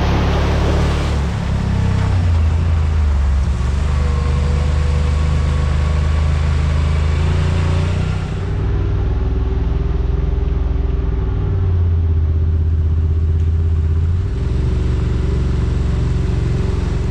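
Yamaha RMAX side-by-side's engine running under way on a trail, a steady low drone whose pitch shifts a little as speed changes. A rush of noise in the first second or so fades out.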